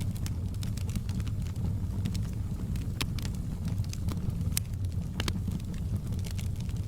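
Wood fire burning in a fireplace: a steady low roar of the flames with scattered sharp crackles and pops of burning wood, a few louder pops about halfway through.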